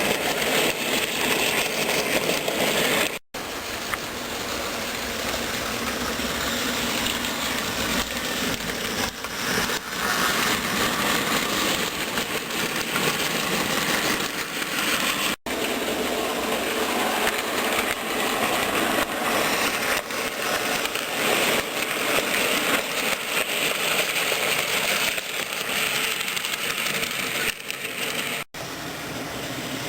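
HO-scale model train of a BB 67554 diesel locomotive with covered and refrigerator wagons, running steadily on the track. The sound drops out for an instant three times.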